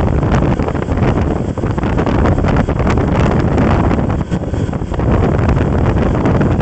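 Wind buffeting the microphone: a loud, steady rushing rumble that flutters constantly.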